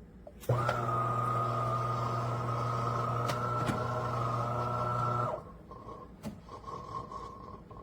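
De'Longhi Eletta Explore espresso machine running with a steady electric hum that starts about half a second in and stops abruptly about five seconds later.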